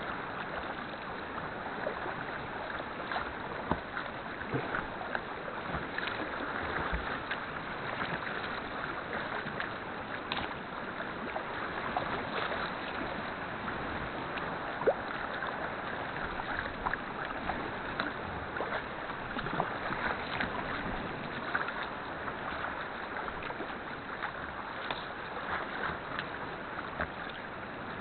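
Sea kayak being paddled: paddle blades dipping and splashing, with water lapping and dripping against the hull over a steady wash of sea.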